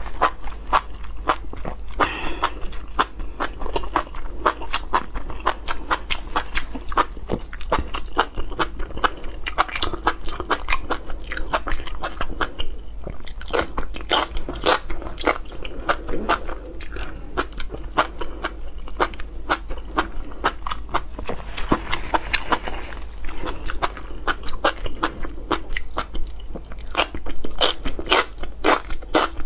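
Close-miked chewing and biting of spicy enoki mushrooms: a dense, continuous run of small wet clicks and crunches.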